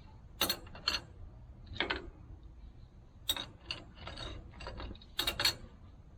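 Irregular sharp metallic clicks and clinks from hydraulic hose fittings being handled and fitted onto a diverter valve, about eight in all, two close together near the start and a cluster near the end.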